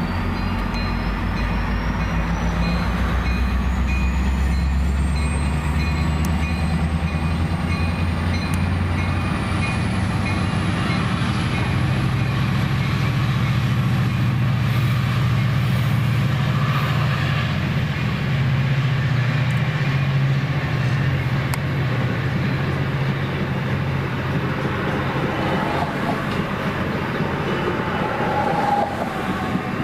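A diesel train passing close by: a steady, loud low engine drone whose pitch steps up about a third of the way through, over the continuous rumble of rolling cars.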